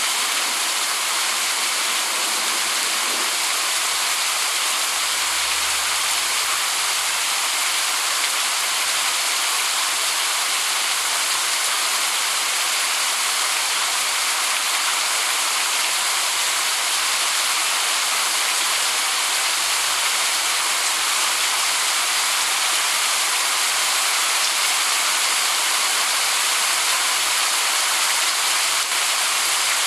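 Rain falling steadily: an even hiss with no let-up and no single drops standing out.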